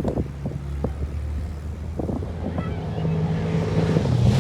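Off-road race vehicle's engine approaching: a low engine drone that grows steadily louder toward the end.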